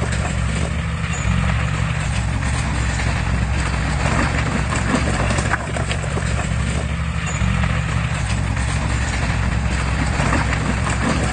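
A bulldozer's diesel engine running steadily under a continual clatter of short metallic clanks, typical of steel tracks and blade working.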